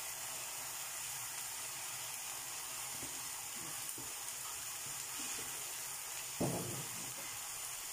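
Minced beef and onions sizzling steadily as they fry in a pan, with a brief dull bump about six and a half seconds in.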